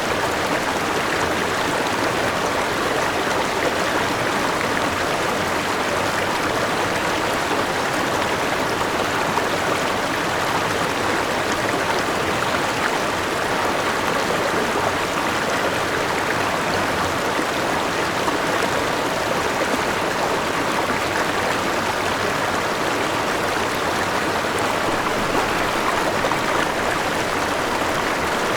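River water flowing and splashing over rocks in a steady rush, from a small waterfall and forest stream.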